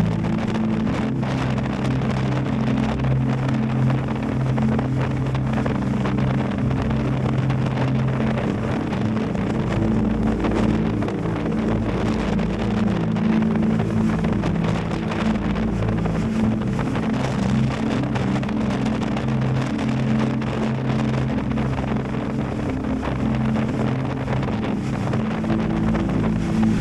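Yamaha Tracer 7 GT's 689 cc parallel-twin engine running at a steady cruise, with its pitch holding nearly level, under heavy wind noise on the microphone.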